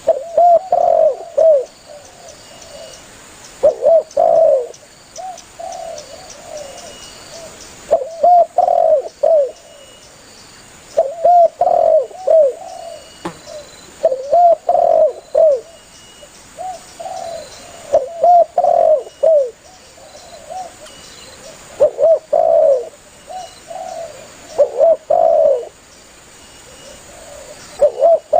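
Spotted dove (tekukur) cooing: phrases of several low, looping coo notes, repeated about every three to four seconds.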